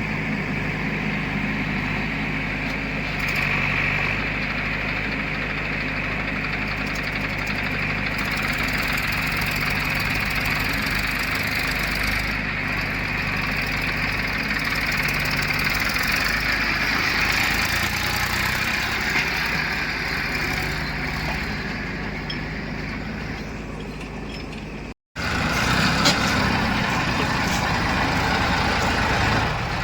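Heavy diesel machinery running steadily: a backhoe loader and tractors at work. The sound cuts out for an instant about 25 seconds in, then carries on.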